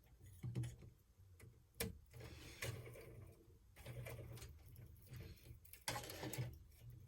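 Small plastic clicks and rattles of Lego pieces being handled and fitted, a handful of sharp clicks scattered through, over a steady low hum.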